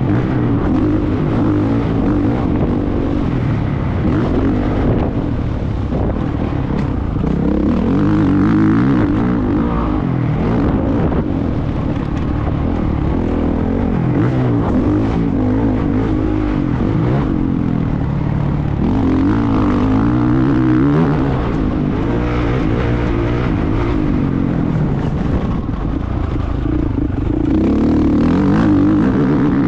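Motocross motorcycle engine running under load while being ridden, its pitch rising and falling again and again as it revs up and backs off.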